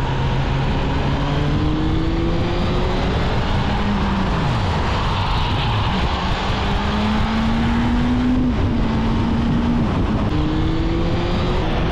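Motorcycle engine running at road speed under heavy wind noise. Its pitch drops about four seconds in, climbs for a couple of seconds, then steps down again.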